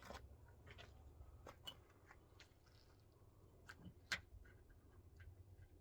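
Near silence with faint, scattered clicks and light scrapes of hand work, about a dozen over a few seconds, over a low steady hum.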